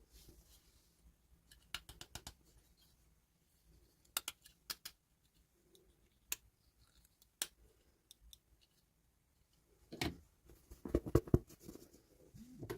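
Small sharp clicks and snips from doll packaging being opened by hand, with a quick run of clicks about two seconds in. Louder knocks and rustling come near the end.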